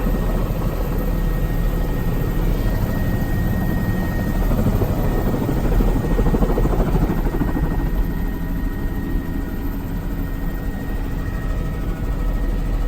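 Helicopter running at flight power as it climbs away after take-off, heard from inside the cabin: a steady deep rotor and engine rumble with a thin steady whine above it.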